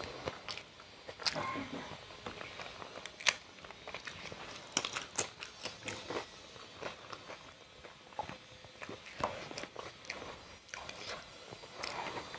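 Close-up crunchy biting and chewing: a person eating crunchy food, with irregular sharp crunches throughout and the loudest a little after three seconds in.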